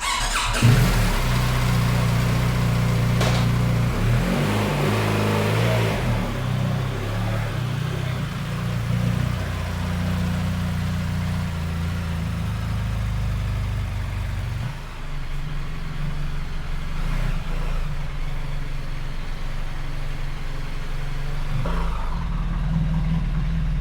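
Large motorcycle engine running, with a few changes in pitch during the first several seconds, then settling to a steady idle.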